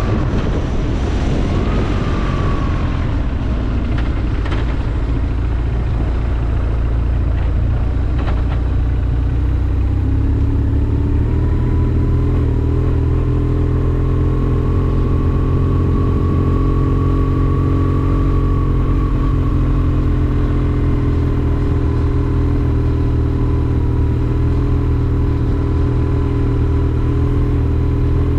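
Motorcycle engine running under way, changing speed for the first several seconds and then settling into a steady cruising drone about ten seconds in.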